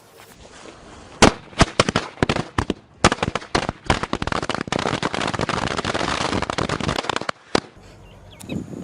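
Firecrackers going off: a few separate sharp bangs at first, quickening into a dense rapid crackle of bangs for about three seconds that stops abruptly, then one last bang.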